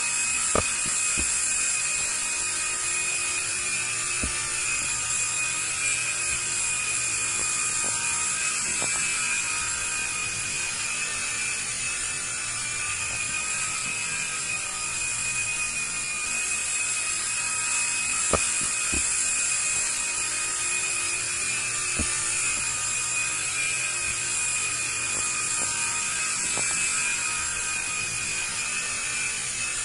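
Small IR remote-control toy helicopter running, its electric rotor motors giving a steady high-pitched whine, with a few light knocks.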